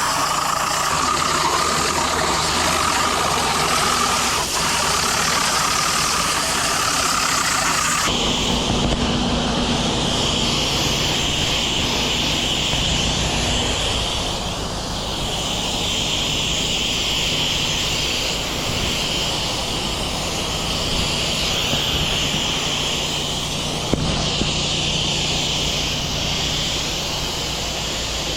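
Engine-driven pressure washer running steadily, with its water spray hissing; the sound changes abruptly about eight seconds in.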